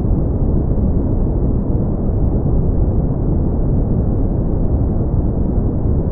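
Steady brown noise: an even, deep rumbling hiss with its energy in the low end and almost nothing above the midrange.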